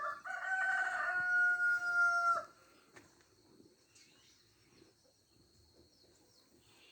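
A rooster crowing once: a broken start and then a long held note, about two and a half seconds in all.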